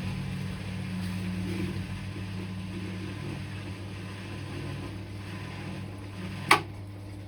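Electrolux Quickwash commercial washing machine humming steadily, typical of its drain pump emptying the drum after the program has been ended. One sharp click about six and a half seconds in.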